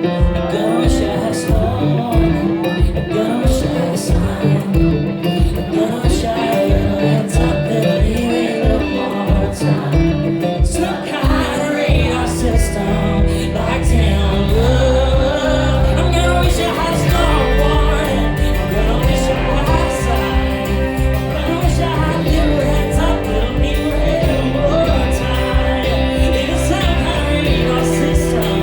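Live country-pop band music: guitar over a steady low pulse about twice a second. About twelve seconds in the low end fills out into sustained bass.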